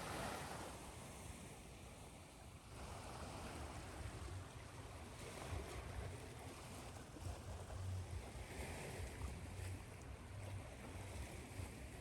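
Ocean surf: a steady rushing wash that swells and eases, with a low rumble underneath.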